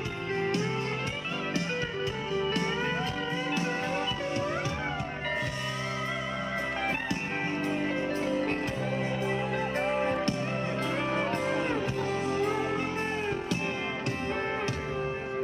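Live country band playing an instrumental break: a lead guitar solo with bending, sliding notes over the band's steady beat.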